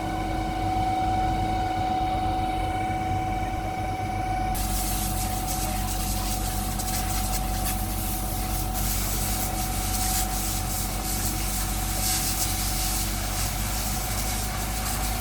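Fire engine running steadily with a constant hum. About four seconds in, a loud, steady hiss of water spraying from a fire hose joins it.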